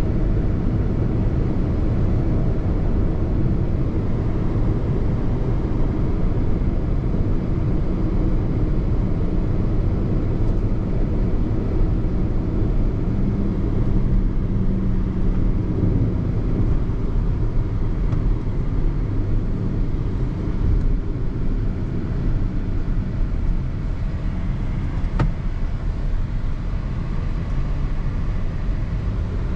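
Car driving at a steady speed: a constant low rumble of engine and road noise, with one brief click late on.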